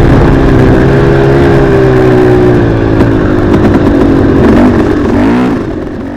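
Dirt bike engine running under way, revs held fairly steady, then dipping and climbing again about five seconds in before the sound fades out at the end.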